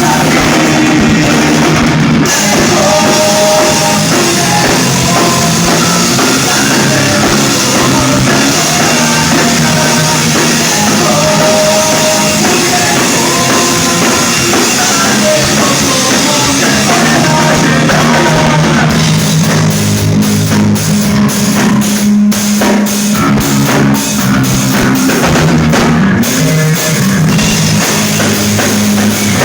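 Live rock band playing loudly, drum kit prominent. In the second half the drums change to a run of sharp, repeated hits.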